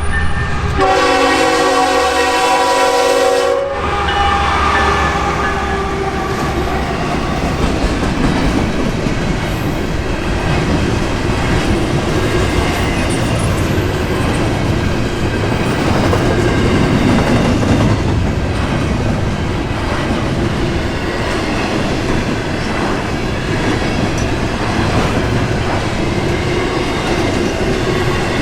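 Norfolk Southern GE ES44AC locomotive's air horn sounding a held chord that cuts off about three and a half seconds in. Then the intermodal container train rolls past with a steady rumble, its wheels clicking over the rail joints.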